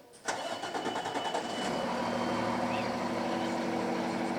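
Fire engine's diesel engine starting with a sudden burst, then settling into a steady idle.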